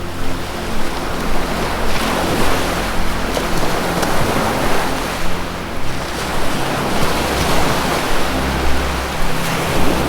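Ocean surf washing continuously, its hiss swelling and easing again and again, over a low sustained music drone.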